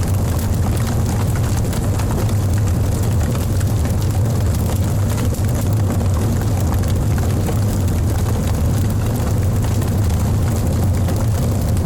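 Wood fire burning in a fireplace: a steady low rumble with frequent small crackles and pops from the burning logs.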